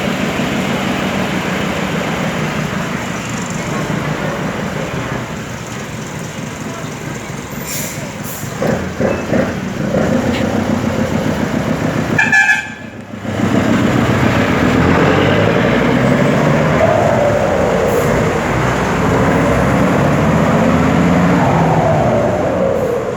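Mercedes-Benz 1526 truck's diesel engine running through a straight exhaust with no muffler, a 4.5-inch tailpipe and a comb fitted in the turbo. It is revved repeatedly, with rising pitch sweeps in the second half. The sound drops briefly about halfway through.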